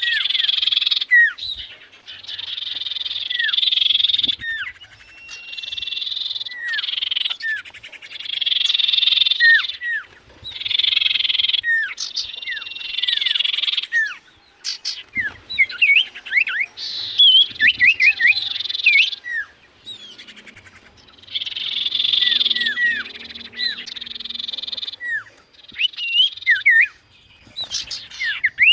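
Common iora (cipoh) singing: rapid trilling phrases of about two seconds, repeated with short pauses, mixed with clear downslurred whistles, and a run of quick rising and falling whistled notes about midway.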